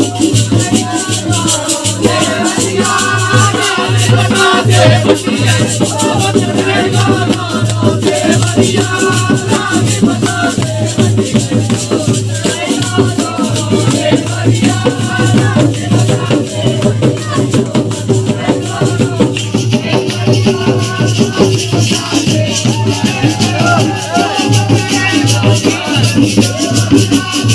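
Music of a Holi folk song: fast, dense jingling percussion under a wavering melody line.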